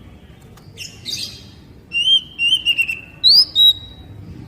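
Oriental magpie-robin singing. A harsh, scratchy note comes about a second in, followed by a run of clear whistled notes and a sharply rising whistle that is held briefly.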